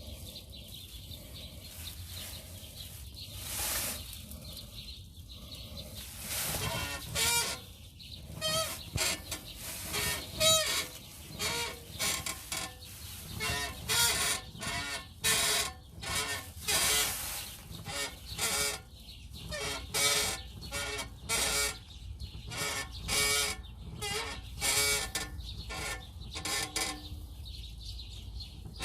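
Peugeot 206 CC rear suspension squeaking over and over: a few squeaks at first, then a steady run of about one to two a second from about eight seconds in. The owner suspects the rear axle and its bearings.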